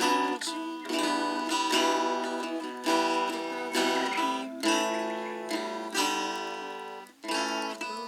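Acoustic guitar strummed in chords, a strong strum about once a second with lighter strokes between, each chord left to ring and fade.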